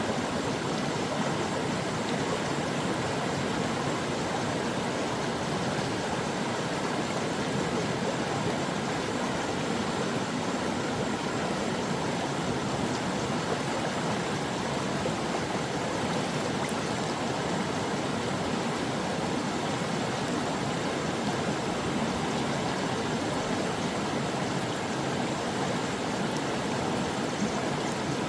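Brook water flowing: a steady, unbroken rush of running water.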